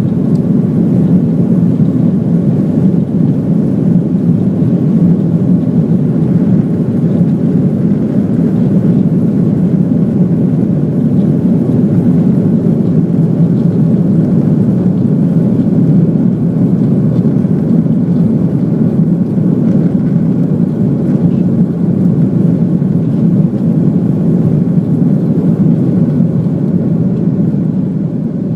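Airliner engines during takeoff: a loud, steady rumble that eases slightly near the end.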